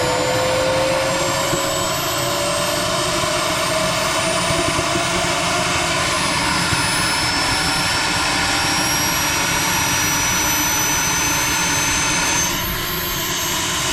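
Model jet's kerosene turbine engine running steadily, its whine slowly rising in pitch as it spools up.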